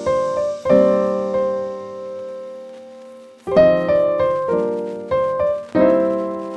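Background music: piano chords struck and left to ring, a pair near the start, a long fading chord, then a quicker run of chords in the second half.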